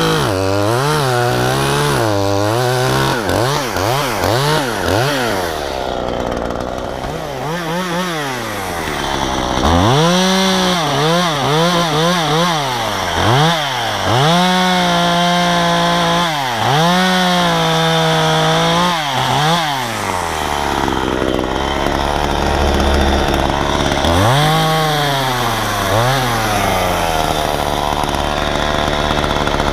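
Efco MTT 3600 top-handle two-stroke chainsaw revving up and down again and again, held at high revs through several longer cuts into maple, then dropping to idle about twenty seconds in before revving once more.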